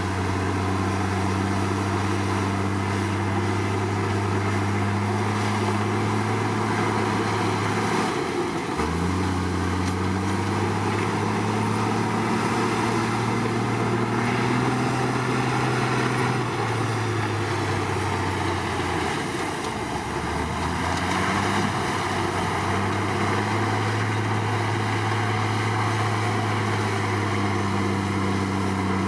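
Komatsu D53 crawler bulldozer's diesel engine running steadily, its note sagging in pitch about eight seconds in and again near twenty seconds before picking back up.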